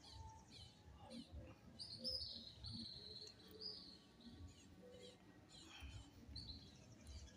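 Small birds chirping faintly, with a run of high chirps about two seconds in and a fast, high trill near the end.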